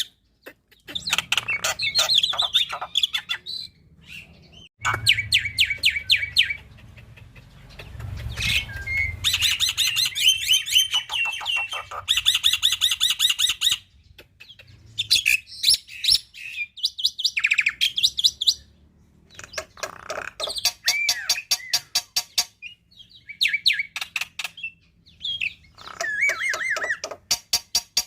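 Black-winged myna (jalak putih) singing in bursts: rapid trains of repeated chattering notes and short whistles, a few seconds each, broken by brief pauses.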